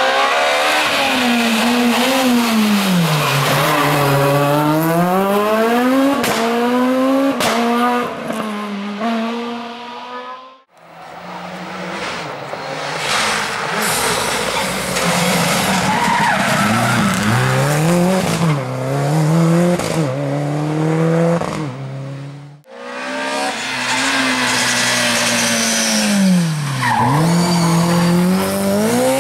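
Rally car engines revving hard, their pitch climbing and dropping repeatedly as the drivers accelerate, shift and lift for corners, with tyre squeal mixed in. The sound cuts off suddenly about ten seconds in and again about twenty-two seconds in, with a fresh car run starting each time.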